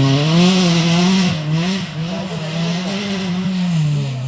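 Off-road race car engine revving, its pitch rising and falling several times under throttle, with a steady hiss over it.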